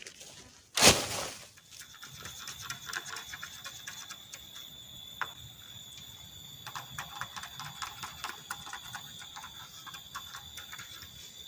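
A single sharp knock about a second in, then insects calling in a steady high-pitched drone over scattered small ticks and crackles.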